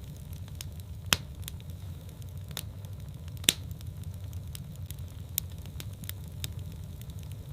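Wood fire in a fireplace crackling over a steady low rumble, with scattered light ticks and two sharp, loud pops: one about a second in and one about three and a half seconds in.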